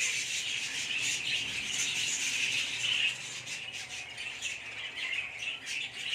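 Lovebirds chattering: continuous high-pitched, raspy chirping from several birds, a little louder in the first three seconds.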